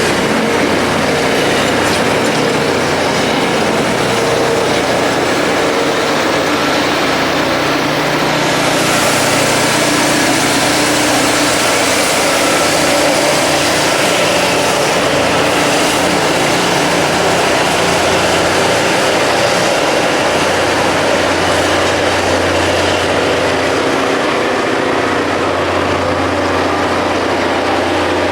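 Self-propelled rail grinding machine at work: diesel engines running under the hiss and rasp of grinding stones on the railhead. The high hiss grows brighter about eight seconds in.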